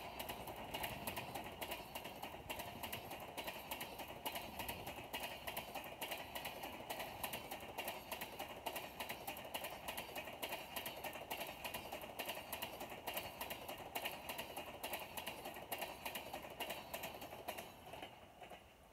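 Long passenger train of LHB coaches passing at speed: a rapid, irregular clatter of wheels on the rails over a steady rumble, falling away about eighteen seconds in as the last coach goes by.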